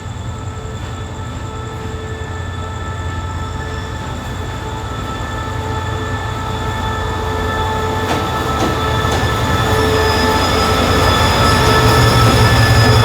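Diesel train drawing closer, its engine rumble growing steadily louder, with steady high-pitched wheel squeal over it.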